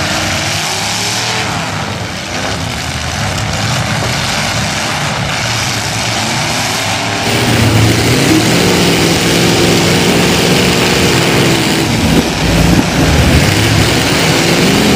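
Demolition derby cars' engines running and revving. About seven seconds in, the sound becomes louder and closer, one car's engine running steadily as heard from inside the car.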